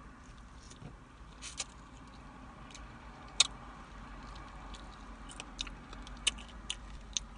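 Crispy fried chicken being bitten and chewed close to the microphone: a scatter of sharp crunches and crackles, the loudest about three and a half seconds in, with a cluster of smaller ones a little later.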